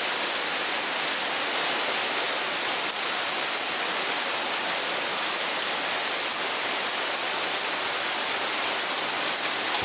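Very heavy rain pouring down steadily, a dense, even hiss of drops on surfaces.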